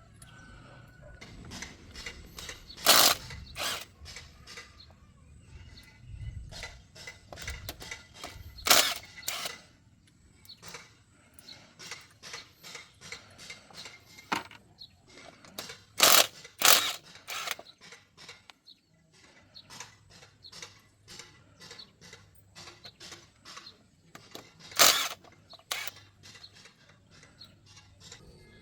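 Hand tools working on car parts: a run of small metallic clicks and taps, with louder knocks that come in pairs four times.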